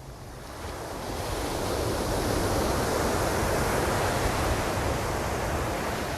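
Ocean surf: a wave breaking and washing in, its rush swelling from about a second in and fading away near the end.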